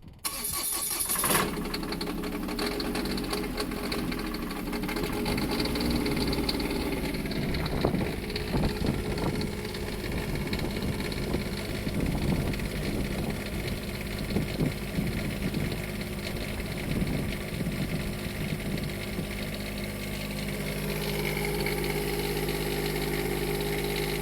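Onan Quiet Diesel 7500 RV generator starting from cold: a short burst as it cranks and catches about a second in, then the diesel runs unevenly before settling into a steadier idle near the end.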